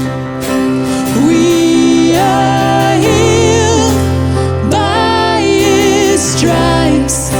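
Contemporary Christian worship song performed live: a singer holds long notes with vibrato between lines of the chorus, over instrumental backing with steady held bass notes.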